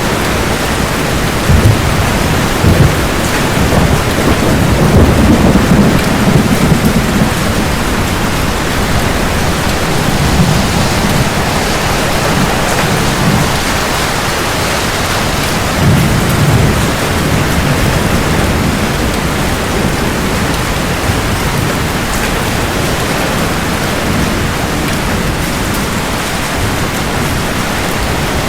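Steady heavy rain with rolling thunder: low rumbles swell and fade several times, strongest in the first seven seconds and again about sixteen seconds in.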